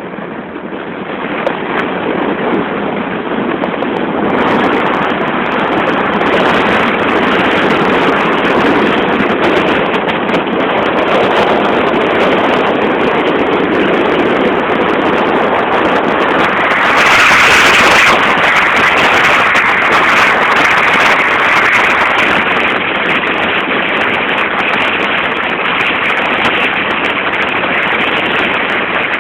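Steady road and wind noise of a moving car, heard from inside the car. The noise grows louder and brighter about two-thirds of the way through and stays so for several seconds.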